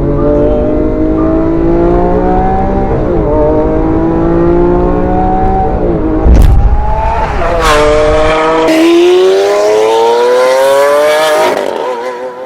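Sports car engine accelerating hard through the gears: its pitch climbs steadily, then drops back at each of several upshifts.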